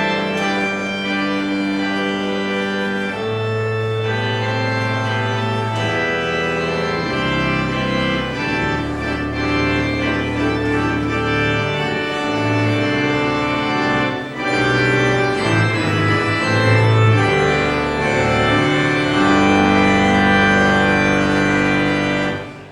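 Church organ playing the postlude after the benediction: full sustained chords over a slowly moving bass line, breaking off abruptly at the end.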